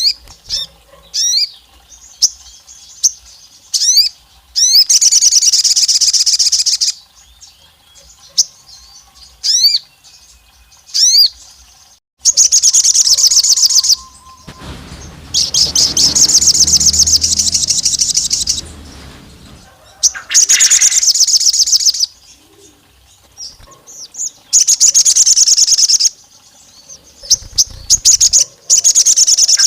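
A sogon songbird singing: single high upswept chirps and long rapid trills of the same rising notes, repeated in bursts of about two seconds each, four times. A lower rumbling noise runs under the song around the middle.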